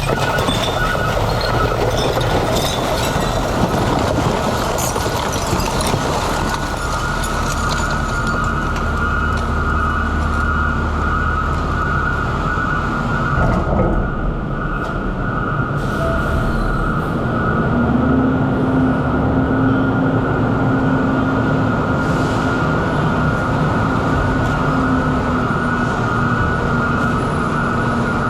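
Garbage truck running with a heavy low rumble and a steady high-pitched whine throughout. A lower hum comes in and rises in pitch about eighteen seconds in.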